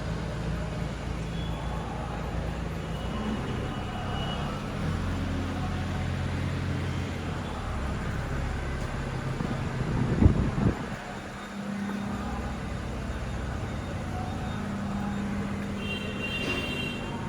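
Tractor-driven rice mill running: a steady engine and machinery hum, with a sudden loud thump about ten seconds in.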